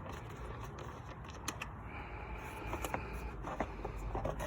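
Scattered small clicks and light knocks as the air filter cover is taken off a Briggs & Stratton Intek engine to check the filter.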